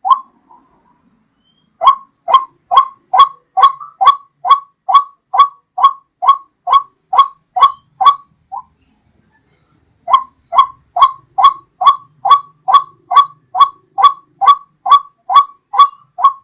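White-breasted waterhen (ruak-ruak) call played as a bird-hunting lure: a loud, short rising note repeated about twice a second. It comes in two long runs with a pause of about a second and a half between them.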